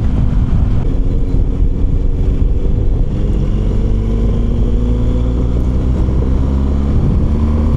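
BMW R1200GS flat-twin engine running under way, mixed with a steady wind rumble on the rider's microphone. The engine note rises slowly through the second half as the bike gently speeds up.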